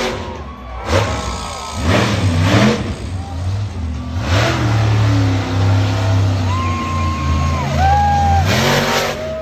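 Monster truck engine revving in repeated throttle surges, its pitch rising and falling, with a steady run at higher revs through the middle.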